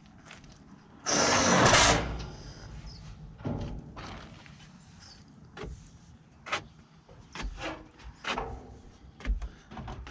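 A loud rasping burst lasting about a second, about a second in, followed by scattered knocks and clunks of building materials being handled.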